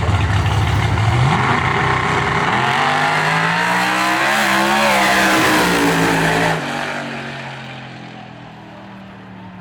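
Drag-race car engine accelerating hard down the strip, its pitch climbing from about a second in. It drops off abruptly after about six and a half seconds and fades out.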